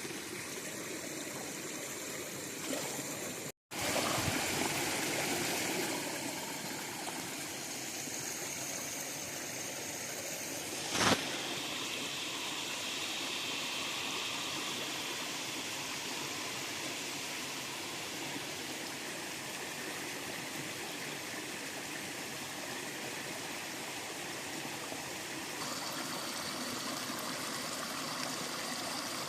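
River water flowing and trickling steadily. The sound drops out for a moment a few seconds in, and there is one sharp knock about eleven seconds in.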